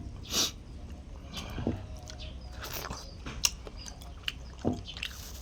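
A person chewing and smacking their lips while eating chicken, close to the microphone, with scattered small clicks and a short hiss about half a second in.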